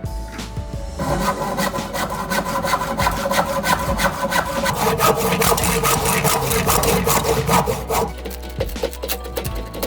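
Hand saw cutting through wood in rapid rough strokes, starting about a second in and stopping near eight seconds.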